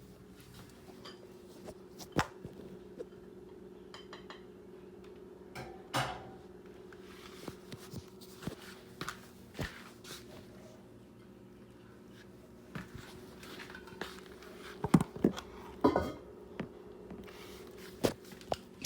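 Kitchen dishes and utensils clinking and knocking now and then as food is prepared, with a busier run of clatter near the end, over a steady low hum.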